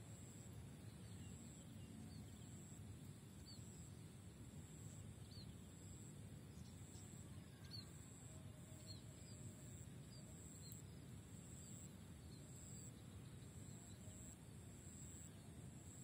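Near silence: faint outdoor ambience with a low, steady rumble and small, faint high bird chirps about once a second.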